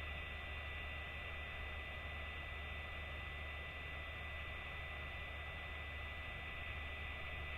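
Steady electrical hum with an even hiss and a thin, constant high whine, unchanging throughout.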